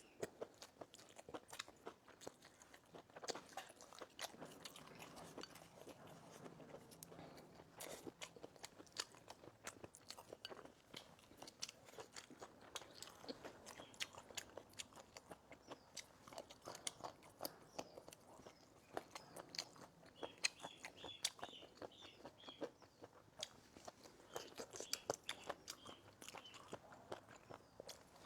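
Faint eating sounds: a person chewing and crunching food, with many small irregular clicks.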